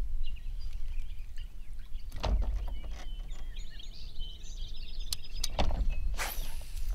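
A steady low rumble, with birds chirping and a few sharp knocks and rustles.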